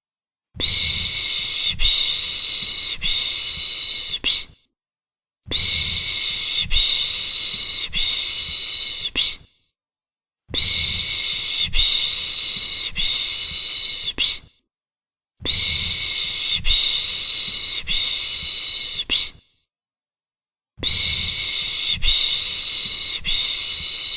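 A person shushing a baby with a soothing 'pış pış' sound, a hiss broken into a few strokes. It comes in runs of about four seconds with a second of silence between them, five runs in all.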